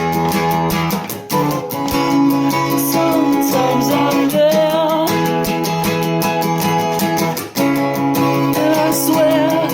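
Acoustic guitar strummed in a slow ballad, with a voice singing a wavering melody over the chords. The strumming dips briefly about a second in and again about three-quarters of the way through.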